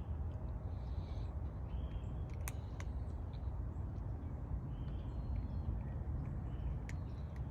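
Steady low outdoor rumble with faint bird calls and a few sharp clicks.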